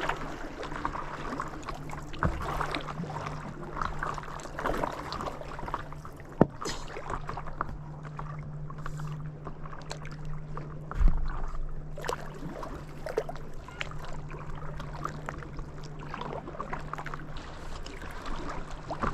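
Stand-up paddle board paddle strokes: the paddle dipping and splashing, with water lapping against the board. There is a sharp knock about six seconds in and a louder thump about eleven seconds in.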